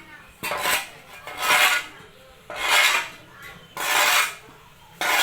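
Rhythmic scraping strokes through sawdust as the mushroom substrate mixture is worked, about one stroke every second and a quarter.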